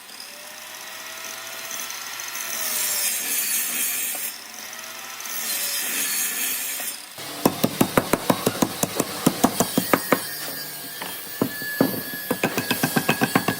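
Hand tools working wood: a long scraping, rasping stretch of strokes, then rapid sharp taps on wood, about six a second, from about seven seconds in.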